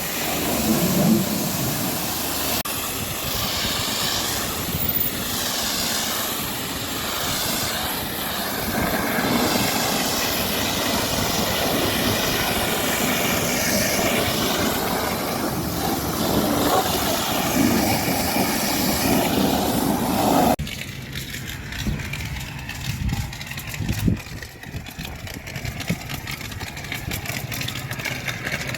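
High-pressure washer spraying, a loud steady hiss that swirls as the jet moves over the truck. About twenty seconds in it cuts off abruptly, leaving a quieter low engine hum with scattered clicks.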